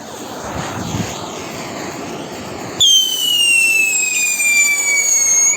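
Whistling fountain firework: first a hiss, then about three seconds in a loud shrill whistle starts and slowly falls in pitch before cutting off at the end.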